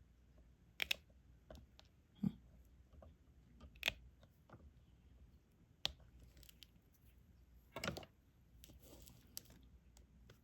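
Diamond painting in progress: the drill pen picking up resin drills from the tray and pressing them onto the sticky canvas, a few sharp clicks and taps spread out, with a soft knock about two seconds in and a brief scraping near the end.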